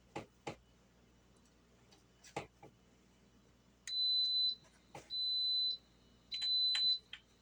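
Electric pressure cooker beeping three times, each a long, steady, high-pitched beep. A few light knocks and taps come before the beeps.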